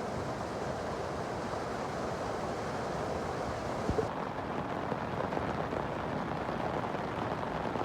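Steady rain falling, a dense even hiss, with a single sharp knock about four seconds in.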